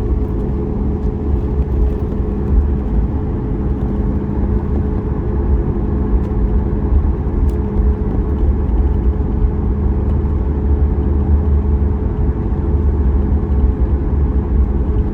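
Cabin noise of a Boeing 737 MAX 8 taxiing, its CFM LEAP-1B engines running at idle: a steady low rumble with a steady hum over it.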